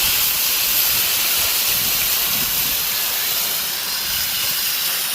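Pressure washer spray hissing steadily.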